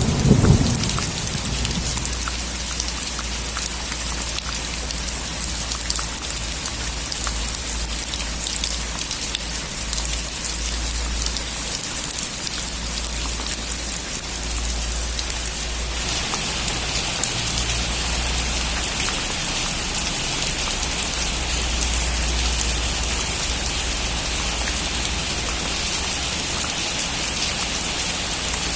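Heavy rain drumming steadily on a metal roof, a dense patter of drops, with the last of a thunder rumble dying away in the first second. About halfway through, the rain turns brighter and a little louder.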